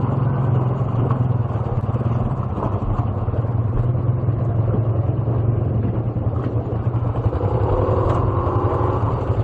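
Motorcycle engine idling steadily: a continuous low drone.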